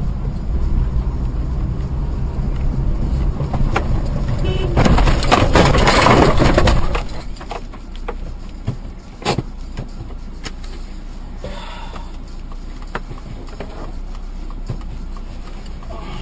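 Vehicle rumble heard from inside a car on the road. About five seconds in comes a loud, rushing noise that lasts about two seconds. After it the sound drops back to a quieter background with a few sharp knocks.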